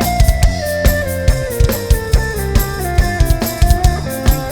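Live band's instrumental break: a drum kit keeps a steady beat with kick drum and snare under a lead instrument playing a sustained melody that steps gradually downward.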